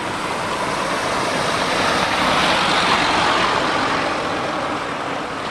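A motor vehicle passing by: a steady rushing noise that swells to a peak about halfway through and then fades away.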